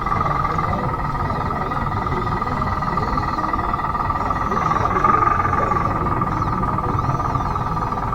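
Converted Bruder D5 RC bulldozer running, its electric drive giving a steady high whine over a rough low rumble, briefly louder about five seconds in.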